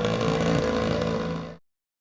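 Motorcycle engine running at a steady speed, fading out to silence about one and a half seconds in.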